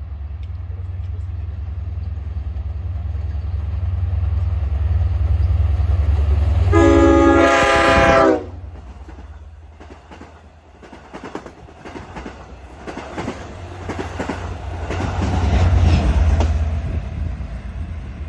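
LIRR DM30AC dual-mode diesel locomotives passing with a train: the engine rumble builds as it approaches, then one horn blast of about a second and a half, several tones at once, cuts off sharply. Wheels then click over the rail joints as the coaches go by, and the engine rumble swells again near the end.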